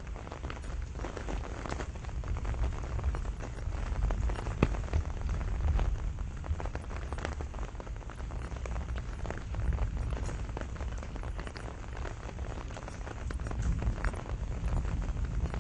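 Rain shower falling on a pomegranate tree, a dense patter of separate drop hits over a steady low rumble.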